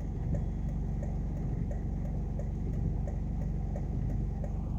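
Vehicle engine idling, a steady low hum heard from inside the stopped car, with a faint regular ticking about three times a second.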